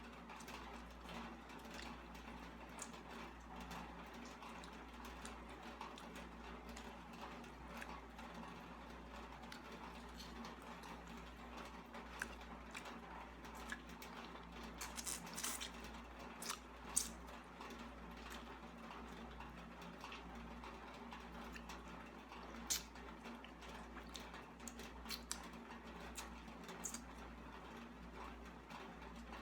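A person eating: faint chewing and wet mouth sounds with a few sharp clicks, over a steady low hum.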